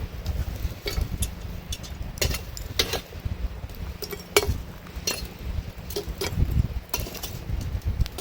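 Metal tongs clinking and knocking against a cast-iron Dutch oven as hot coals are picked up and set on its lid: a dozen or so irregular light clinks.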